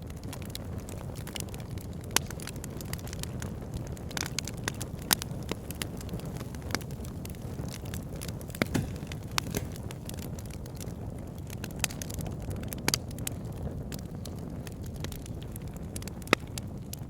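Campfire burning: a steady low rush of flames with scattered sharp crackles and pops from the wood, a few louder snaps standing out among them.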